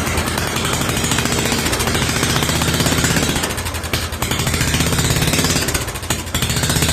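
Wheel Horse garden tractor's small gas engine running fast and loud on starting fluid after sitting for years, with a rapid even firing rattle. It falters briefly about four seconds in.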